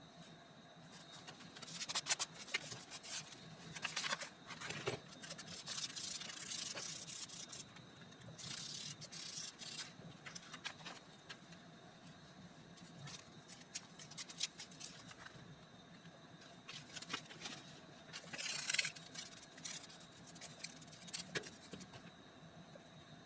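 Paper and craft materials being handled on a tabletop: bursts of rustling and scraping with scattered small clicks.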